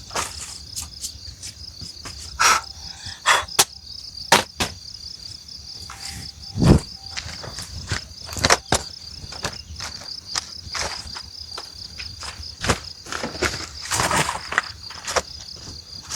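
Insects chirping steadily in a fast, even pulse, with scattered sharp clicks and knocks over it and one heavy thud about halfway through.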